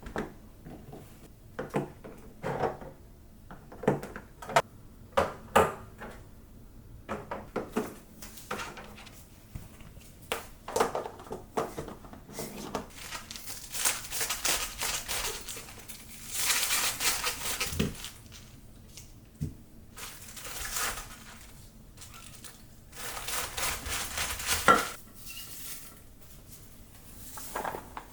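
Kitchen work sounds: dishes and utensils clinking and knocking, irregularly, with a few longer stretches of hiss in the middle and near the end.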